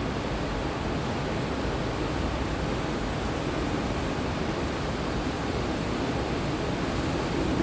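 Steady rush of the Potomac River's waterfalls and rapids running high after heavy rain, an even roar of falling and churning water.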